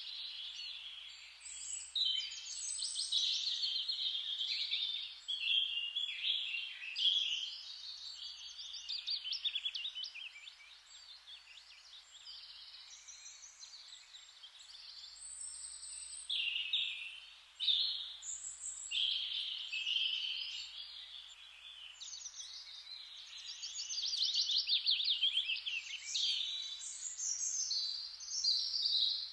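Several songbirds singing over one another in a steady chorus of chirps and rapid trills, high-pitched, swelling and thinning from moment to moment.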